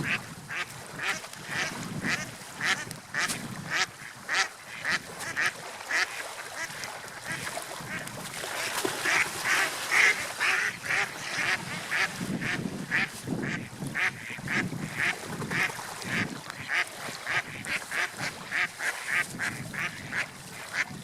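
Birds calling in quick, repeated short notes, about two or three a second, with a denser cluster of calls about halfway through, over a steady wash of background noise.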